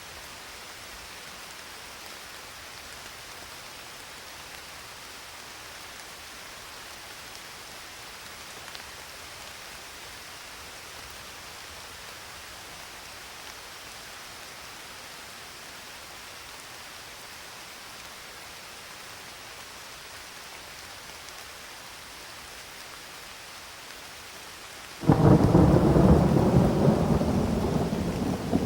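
Steady rain falling, an even hiss, then about 25 seconds in a sudden loud rumble of thunder that slowly fades.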